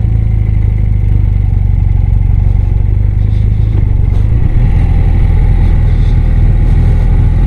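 BMW R100RS air-cooled flat-twin engine running as the motorcycle is ridden. The engine note shifts about halfway through.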